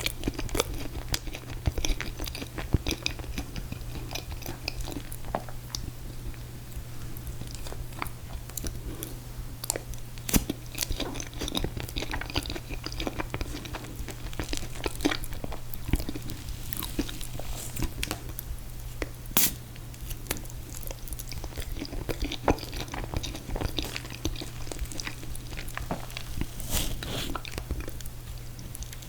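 Close-miked eating of mint chocolate chip ice cream cake with confetti cake: chewing and wet mouth sounds, broken by many short, sharp clicks. A steady low hum runs underneath.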